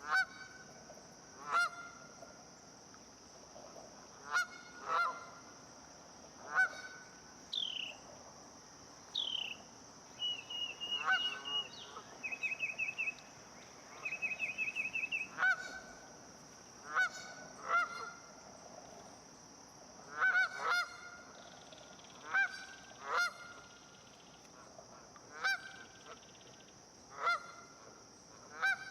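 Geese honking, single and double honks every second or two. About a third of the way in, a few higher descending whistles and short rapid trills come from another bird.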